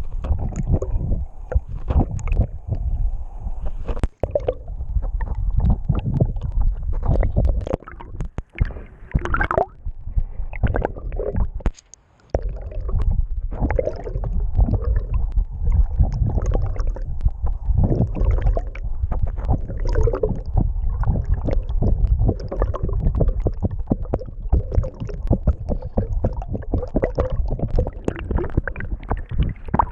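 Water sloshing and gurgling around a camera at the waterline, with constant irregular low thumps and knocks.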